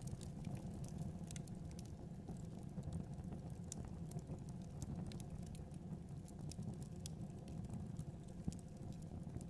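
Fireplace fire burning: a steady low rumble with irregular small crackles and pops scattered throughout.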